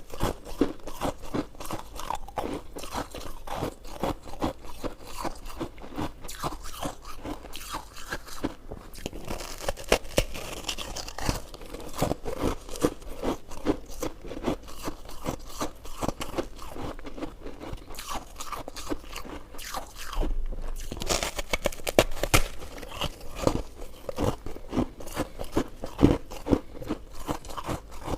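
Close-miked chewing: a continuous run of rapid, crisp crunching bites.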